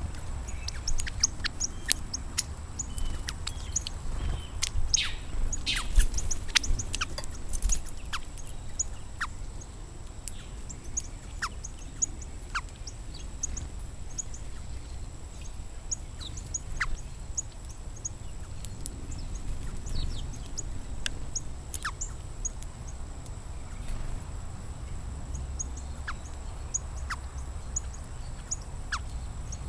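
Small songbirds chirping: many short, high chirps throughout, with now and then a quick falling note.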